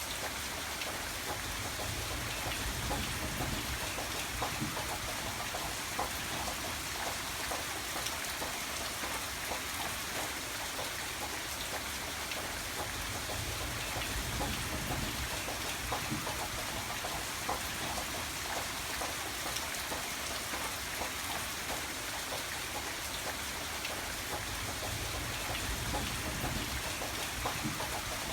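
Steady rain: an even hiss of falling rain with a dense patter of drops hitting a surface, and a low rumble that swells now and then underneath.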